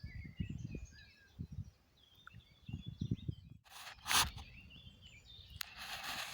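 Small birds chirping and singing over irregular low rumbling thumps. After an abrupt break about three and a half seconds in, two bursts of rushing noise follow, one about four seconds in and one near the end.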